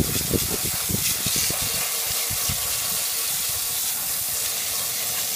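Steady hiss of a water spray washing down a rusty Honda HR-194 push mower, with a few low thumps in the first second and a half.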